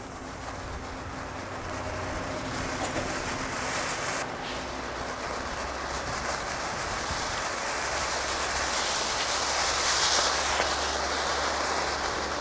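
Firework fountain burning with a steady hissing, crackling spray that grows louder toward about ten seconds in and dies down near the end.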